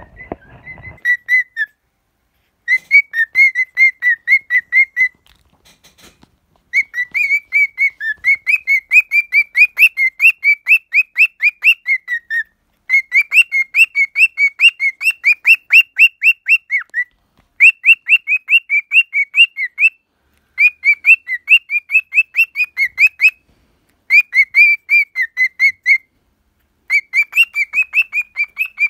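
Cockatiel singing close up: loud runs of short, sharp whistled chirps, about four a second, in phrases of a few seconds broken by brief pauses.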